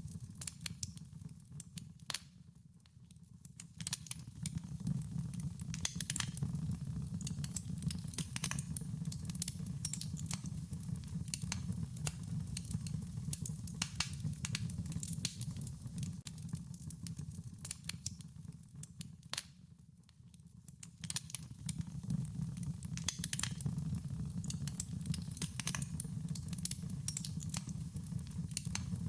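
Wood fire burning with a steady low rumble and irregular sharp crackles and pops, the crackling easing off briefly twice.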